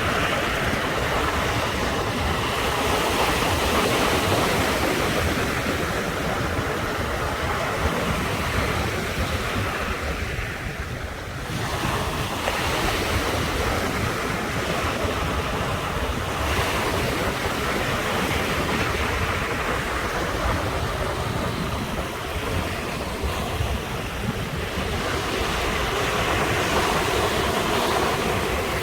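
Ocean surf breaking and washing ashore continuously, swelling and easing in waves, with a short lull about eleven seconds in.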